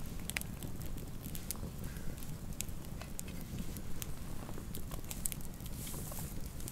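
Campfire of burning wood crackling, with scattered sharp pops and snaps over a steady low rumble of the flames.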